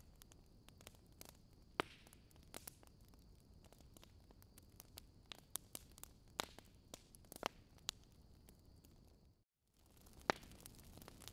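Wood fire in a fireplace crackling: irregular sharp pops and snaps over a soft hiss. The sound cuts out briefly about nine and a half seconds in, then the crackling resumes.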